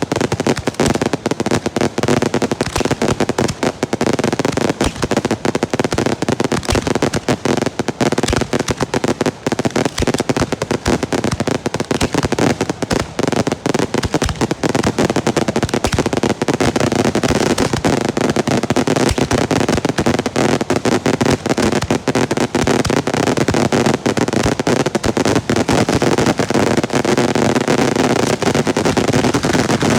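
Girândola fireworks: a rapid, unbroken string of firecracker bangs, many per second, with no pause.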